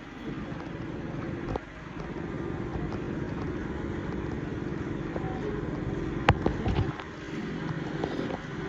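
A motor vehicle engine running steadily, with a sharp click about six seconds in.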